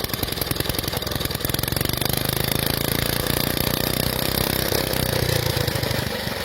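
Motorcycle engine idling steadily, a little fuller from about a second and a half in until near the end.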